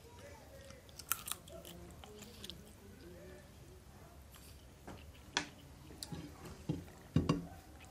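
A man chewing mouthfuls of chicken biryani, with mouth sounds and scattered sharp clicks and crunches; the loudest come about five and seven seconds in.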